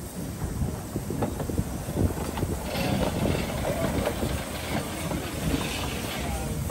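Narrow-gauge steam train on the move: a low rumble with scattered knocks and clanks from the wheels and coaches. A hiss rises over it from about three seconds in and fades near the end.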